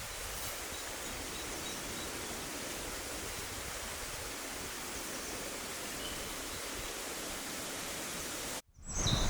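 Steady outdoor rushing hiss of natural ambience, with a few faint, high chirps. Near the end the sound cuts out for a moment.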